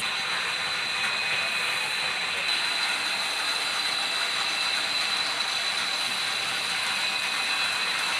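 Lathe machine running steadily: a constant high whine over a dense, rough hiss, starting abruptly.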